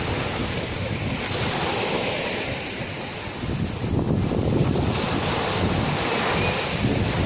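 Sea waves washing onto the shore in a continuous rush, swelling and easing, with wind buffeting the microphone.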